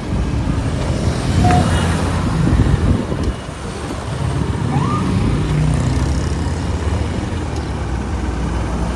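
Street traffic heard from a moving motorbike: engines running and road noise, with a couple of brief high chirps.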